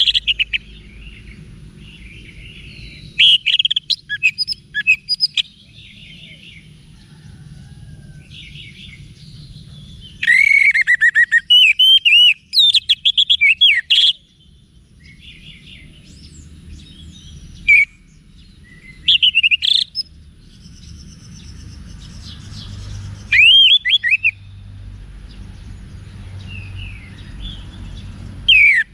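Orange-headed thrush singing in separate bursts of varied, loud whistles, warbles and chirps, with pauses of a few seconds between phrases. A faint low hum sits underneath.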